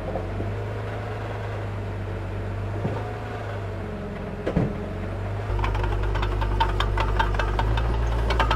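Diesel engine of a mini bulldozer running steadily, with a single knock about four and a half seconds in. The engine gets louder and deeper about five and a half seconds in, and a dense, rapid clicking clatter follows.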